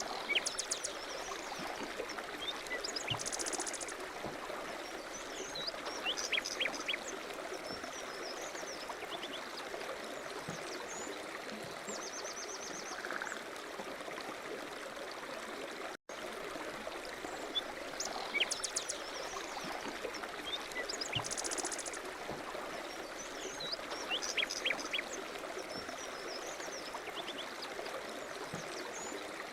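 Running water with small birds chirping over it, steady throughout. There is a brief dropout just past the middle, after which the same stretch of water and birdsong repeats, as in a looped nature recording.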